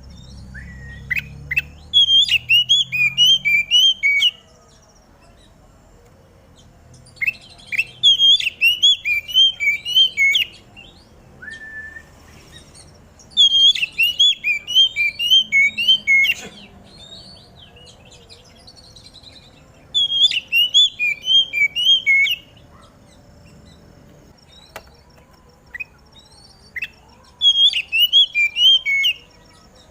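Oriental magpie-robin singing: five phrases of rapid, repeated whistled notes, each lasting two to three seconds, with pauses of a few seconds between them.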